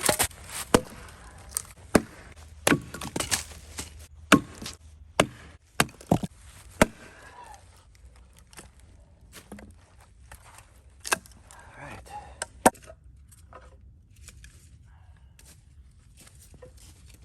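Wood being struck with a tool: a run of sharp knocks, irregularly spaced and up to about a second apart, thinning out after about seven seconds, then two louder knocks later on.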